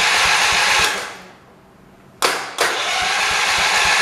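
A 1978 John Deere 208 lawn tractor's single-cylinder engine turning over on the starter without firing, during a spark check. The cranking stops about a second in and starts again a little after two seconds.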